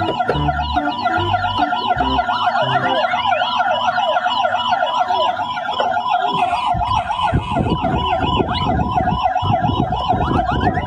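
Electronic toy emergency-vehicle siren wailing rapidly up and down, about four times a second. A rattling clatter joins it in the second half.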